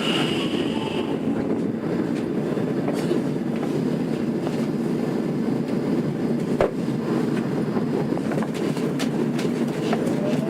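Tokyo Metro 02 series subway car (IGBT-inverter set) heard from inside, its running noise a steady dense rumble. A high tone fades out about a second in, and there is one sharp click about two-thirds of the way through.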